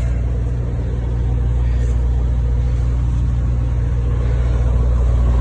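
Detroit diesel engine of a 2016 Freightliner Cascadia Evolution semi truck idling, a steady low drone heard from inside the cab.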